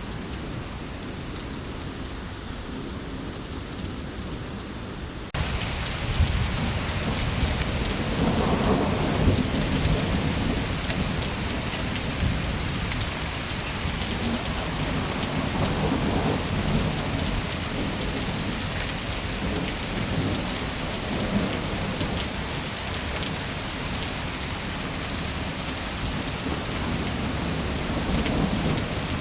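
Steady heavy rain that grows suddenly louder about five seconds in, with low rolling rumbles of thunder swelling and fading several times.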